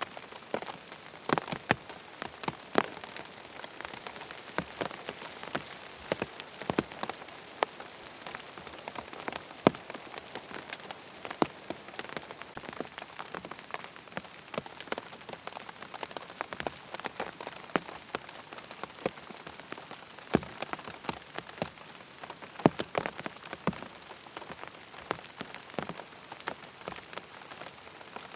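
Steady rain: an even hiss with many close, irregular drop ticks over it.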